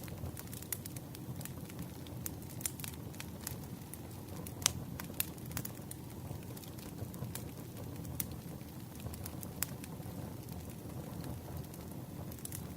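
Campfire burning: a steady low rumble of flames with irregular crackles and a few louder pops of the wood.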